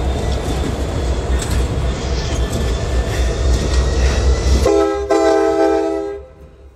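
Norfolk Southern diesel locomotives passing at close range, their engines and wheels rumbling on the rails. About four and a half seconds in the air horn sounds, a brief blast and then a longer one, and cuts off, leaving the sound much quieter.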